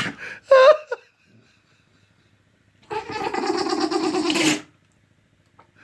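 A dog sneezing: a sharp sneeze right at the start, then a long, drawn-out sneeze lasting nearly two seconds about three seconds in.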